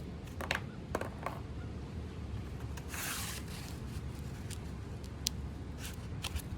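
Light clicks and a short scrape about three seconds in, from hand work on the snowmobile's snow flap, over a steady low rumble of wind on the microphone.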